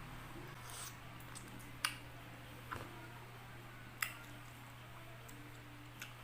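Pineapple being eaten at close range: four sharp clicks a second or two apart, with a soft rustle near the start, over a steady low hum.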